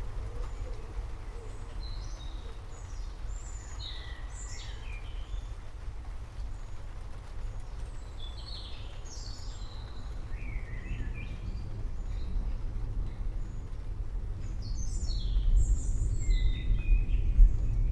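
Low rumble of distant rolling thunder, building louder toward the end. Birds chirp over it in three short bursts of calls.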